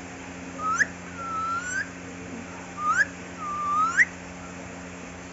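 Pet parrot whistling the same two-part phrase twice: a short rising note followed by a longer note that dips and then rises.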